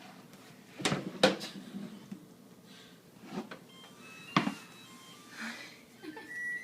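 A few sharp knocks, two close together about a second in and the loudest, more a couple of seconds later, with faint short electronic tones near the end.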